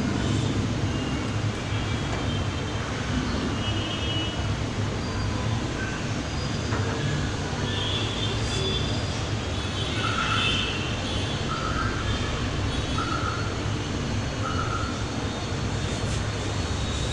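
Steady low rumbling hum of background machinery or traffic, with a few faint short high chirps in the second half.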